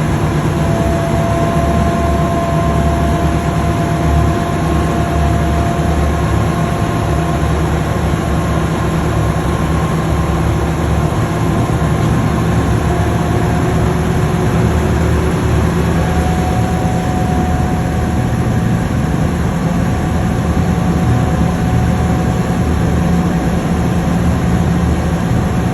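Engine of a river tour boat running steadily, a low hum with a faint whine on top that steps slightly higher in pitch about two-thirds of the way through.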